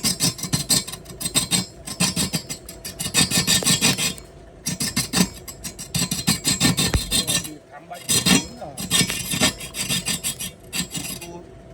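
Rasping strokes on wood in quick back-and-forth succession, coming in bursts of a second or two with short pauses between. A faint steady hum runs underneath.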